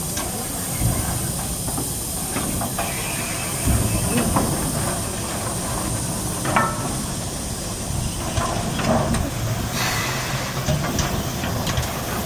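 Steam hissing steadily from the C61 2 steam locomotive, with scattered small clicks and knocks over it.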